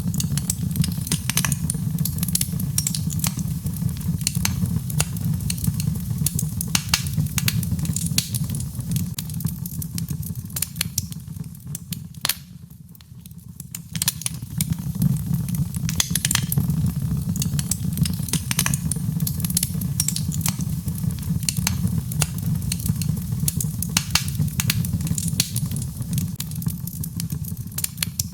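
Birchwood fire burning in a fireplace, crackling with frequent sharp pops over a steady low sound of the flames. The crackling eases briefly about halfway through.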